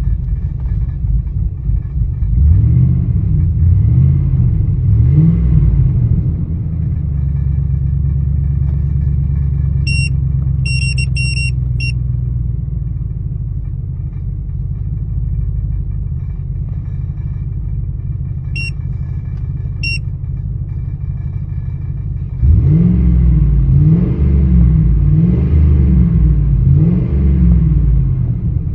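2000 Ford Expedition's V8 running at an idle that the owner finds rough. The engine is revved up and down several times in the first few seconds and again over the last six or so, with steady idle in between. Short high-pitched beeps sound in two clusters around the middle.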